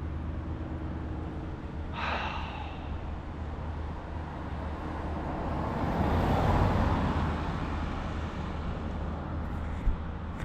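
Steady low hum with a vehicle passing by, swelling and fading around the middle; a person sighs about two seconds in.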